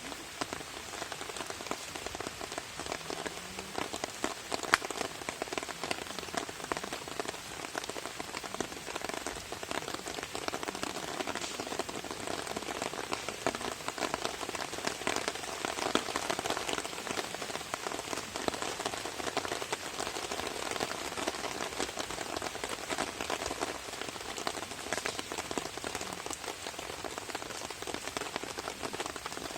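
Steady rain falling on a camping tarp: a dense, even stream of small drop hits, with one sharper hit about five seconds in.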